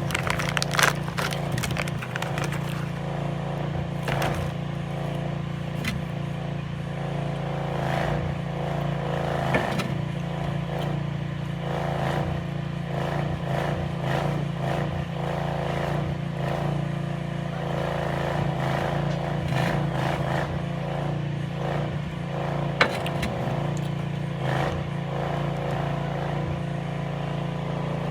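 Crinkling, scraping and crackling of an MRE plastic pouch being handled and opened, in irregular short clicks over a steady low hum.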